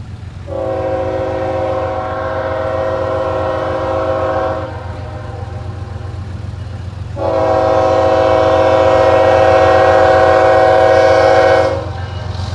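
A CSX diesel locomotive's air horn sounds two long, steady blasts, each about four seconds, with a short gap between, over a constant low rumble. These are the opening long blasts of the grade-crossing signal as the train approaches the crossing.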